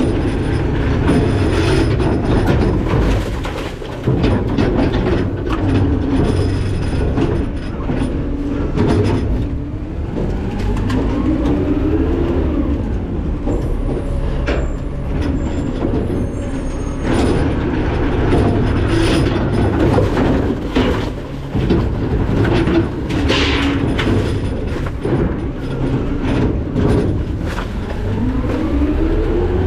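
McNeilus ZR rear-load garbage truck working its hopper. The diesel engine runs and revs up and back down as the hydraulic packer cycles, with metal clanking, creaking and scraping as trash is compacted.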